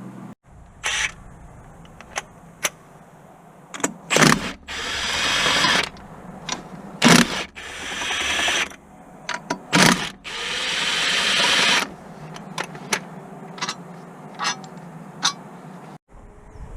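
Mechanic's tool work on a car: sharp metal clicks and knocks, with three longer noisy bursts of a couple of seconds each in the middle that grow louder as they go.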